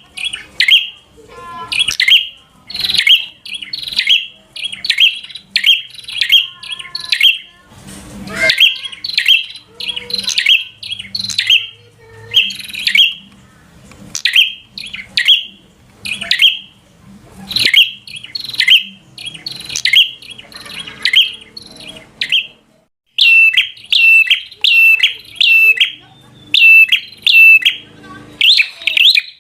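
Prenjak calling in loud, sharp, rapid chirps, given in quick bursts, the excited aggressive 'fighter' calling meant to provoke other prenjak. After a short break about 23 seconds in, it switches to an even run of loud sharp notes, about two a second.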